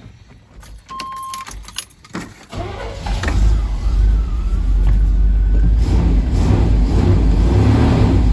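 A few light clicks and a short beep, then a truck engine starts about two and a half seconds in and runs loud and steady with a deep exhaust note, its muffler freshly rewelded and strapped back up.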